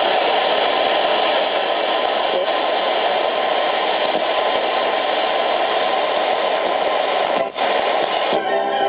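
Grundig Yachtboy 80 world-band radio hissing with loud, even static between stations while being tuned. Near the end a station comes in with music.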